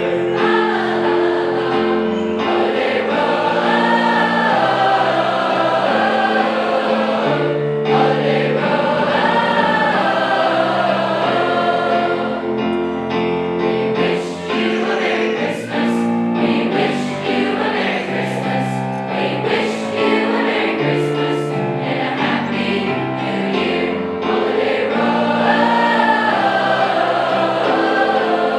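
High school choir singing a Christmas song in several parts over sustained instrumental accompaniment.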